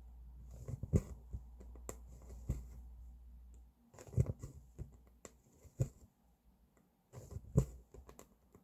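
Irregular small clicks and soft taps of hand cross-stitching, the needle and thread worked through the fabric. A low hum underneath cuts off a little under four seconds in.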